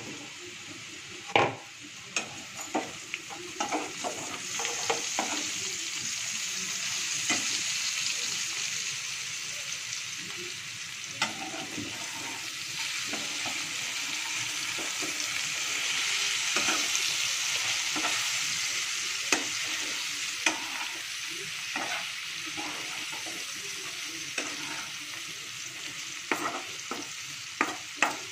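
Sliced radish frying in oil in a nonstick kadai, sizzling steadily, with a slotted spatula scraping and tapping against the pan as the slices are stirred. The sizzle swells through the middle and eases near the end.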